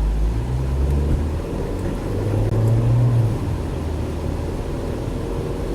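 Car engine and road noise while driving, a steady low hum with the engine pitch rising twice as the car picks up speed.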